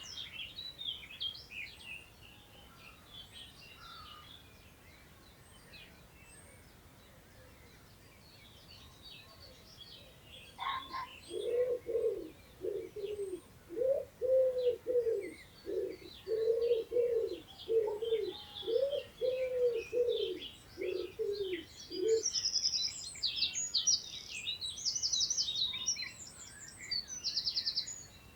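Small songbirds chirping and calling throughout, with a pigeon cooing a low repeated phrase from about eleven seconds in for around ten seconds. Near the end a songbird sings loud, high, rapid trills.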